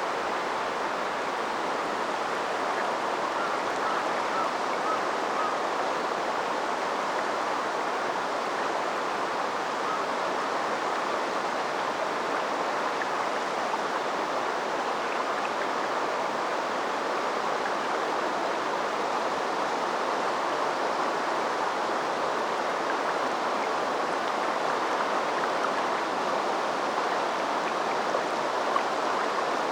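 River water flowing steadily, an even rushing babble with no break.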